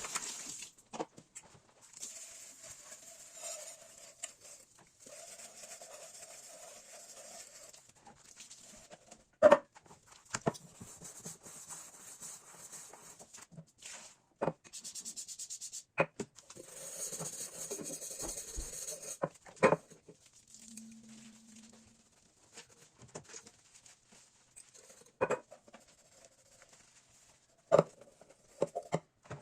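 Household objects being handled in a kitchen: scattered sharp knocks and clicks as things are set down, between stretches of soft rustling.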